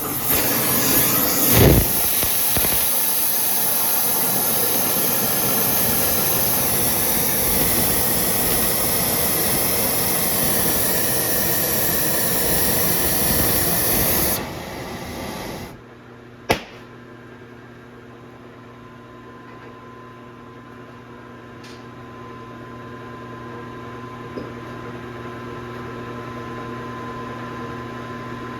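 Welding arc hissing and crackling steadily, the bore of a truck wheel hub being welded up to fill the scoring left by a spun bearing. The hiss cuts off about halfway through, leaving a steady machine hum with a single sharp click.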